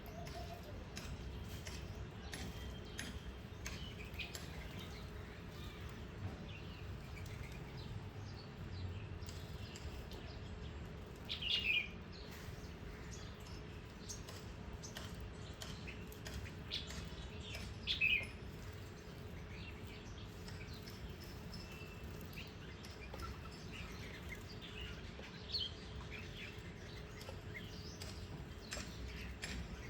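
Small garden birds chirping now and then over a steady low background hum, with two louder bursts of chirps, one about a third of the way in and one a little past the middle.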